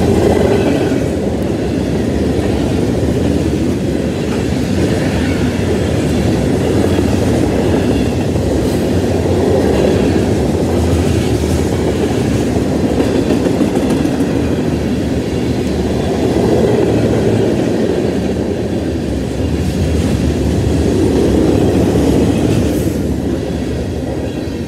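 Freight train cars (covered hoppers and tank cars) rolling past on steel wheels: a loud, steady rumble and clatter of wheels on the rails. It fades near the end as the last car goes by.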